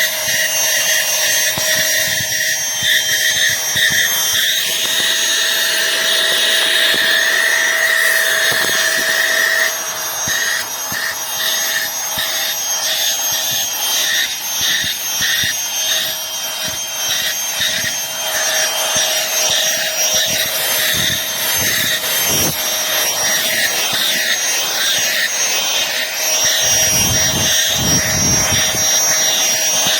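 Aspiron cordless handheld vacuum cleaner running, a steady motor whine with rushing air; its sound shifts about ten seconds in, and a few low bumps come near the end.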